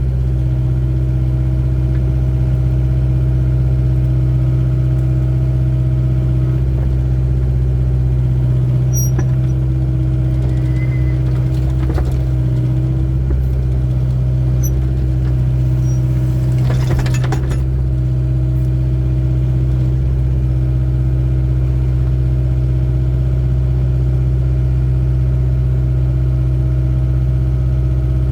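Excavator's diesel engine running steadily at constant speed, a loud even drone. About two-thirds of the way in there is a brief noisy burst of scraping or clatter over it.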